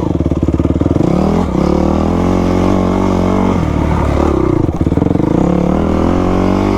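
Yamaha YZ250 two-stroke single-cylinder dirt bike engine running under way as it is ridden. The engine note rises about a second in, dips briefly around three and a half seconds in, then picks up again and holds.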